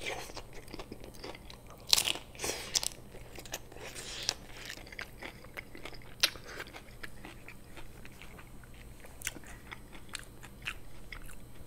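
Biting into and chewing a crisp hard-shell taco: scattered crunches of the shell, the loudest about two and six seconds in, with quieter chewing between.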